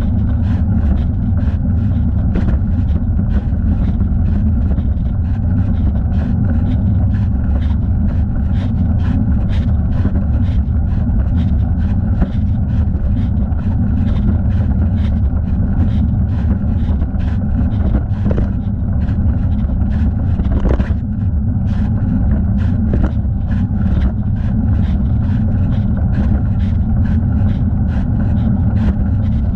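Steady low rush of wind and riding noise on a thigh-mounted camera during a bike ride, with light rhythmic ticks about twice a second.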